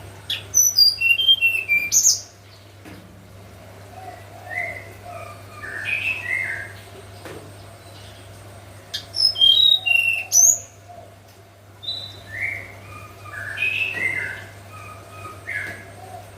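Hill blue flycatcher (tledekan) singing its clear, flute-like whistled song in phrases of short sliding notes. Two high, falling runs come about half a second in and again at about nine seconds; these are the loudest. Lower, softer phrases fall between them, over a faint steady low hum.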